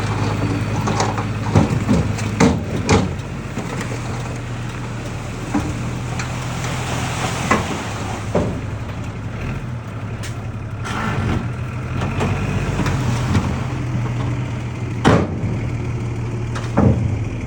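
Heavy equipment engine running steadily at a low idle, with several sharp metallic clanks and knocks scattered through it.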